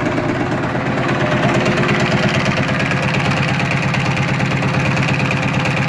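AVZ-180 rotary plunger vacuum pump running steadily on a test bench after a full overhaul, with a fast, even pulsing.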